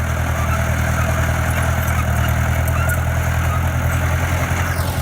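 Diesel engine of a heavy construction machine running steadily with an even low drone.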